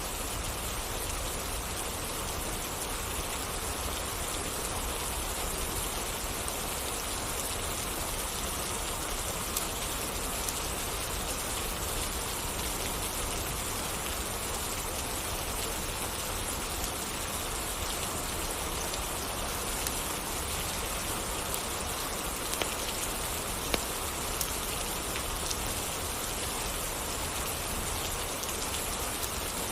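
Steady rain falling on surfaces, an even hiss of drops, with a few sharp pops in the second half.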